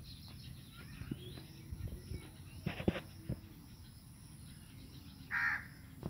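A bird gives a single harsh call about half a second long near the end, over scattered soft knocks and rustles of handling or footsteps.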